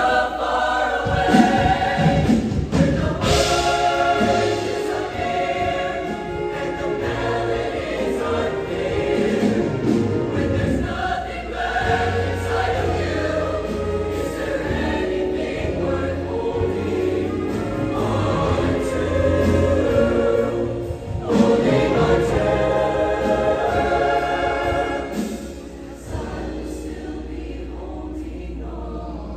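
Show choir singing in full ensemble over an instrumental accompaniment with a steady bass line; the music gets softer for the last few seconds.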